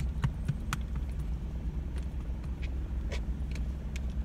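Steady low rumble of a car idling, heard inside the cabin, with a scatter of small clicks and rustles as a small dog scrambles about on the seat and against a person's arm.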